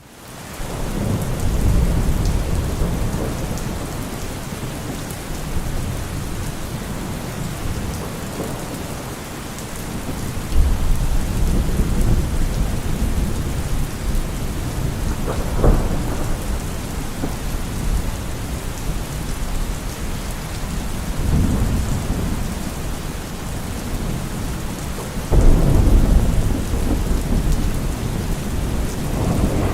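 Steady heavy rain falling, with low thunder rumbling in and out several times, swelling sharply about ten seconds in and again near the end.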